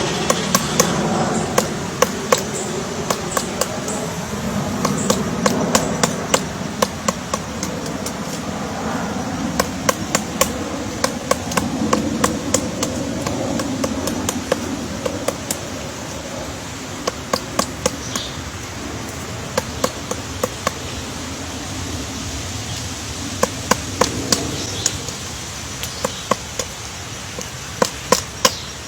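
Woodpecker pecking at wood as it excavates its nest: sharp knocks at an irregular pace, now and then a quick run of several, over a low steady background murmur.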